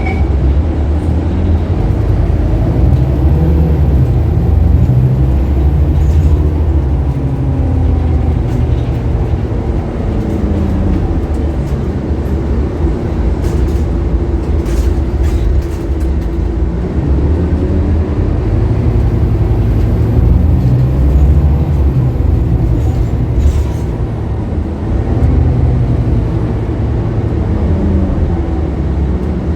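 Scania K280UB bus's diesel engine running under way, its pitch rising as it pulls up through the gears and falling back as it eases off, a couple of times, over a steady low rumble with light rattles.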